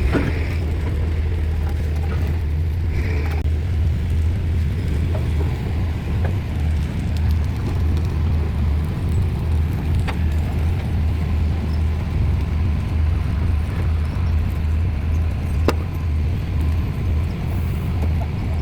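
Large diesel engine of a pile-driving rig running steadily with a low, even drone. Two sharp clicks cut through it, one about ten seconds in and a louder one near the end.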